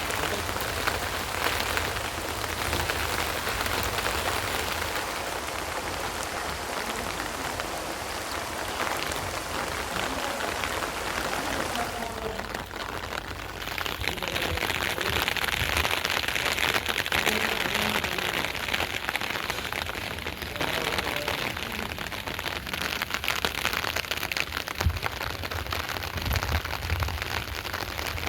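Steady rain falling on garden plants, an even hiss of drops. About twelve seconds in, its sound changes, losing its highest hiss.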